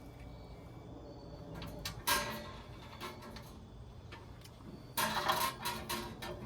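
Metal grill parts being handled and worked into place: a sharp clank about two seconds in, then a burst of scraping and rattling near the end.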